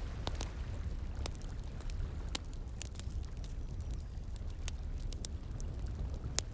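Wood fire crackling, with irregular sharp pops and snaps, over a steady low rush of running water.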